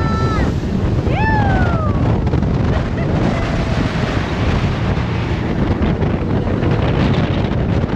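Boat under way, its engine and water noise steady under wind buffeting the microphone. Near the start there is a short held high tone, then about a second in a single high call that falls in pitch.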